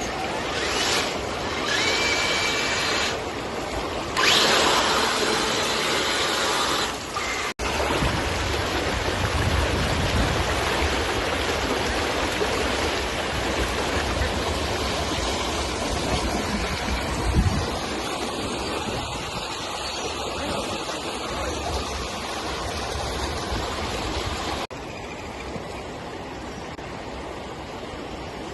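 Rushing water at a weir, a steady noisy wash that changes abruptly between clips, with a hissier, louder stretch a few seconds in and one short thump partway through.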